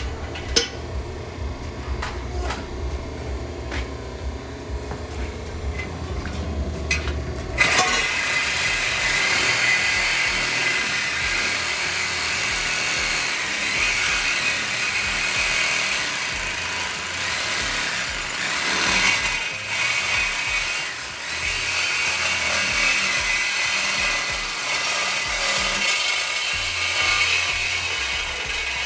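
A power tool cutting through a car's exhaust pipe for a muffler delete. It starts suddenly about seven seconds in with a steady, high, noisy cutting sound that runs on, after a low rumble with scattered clicks.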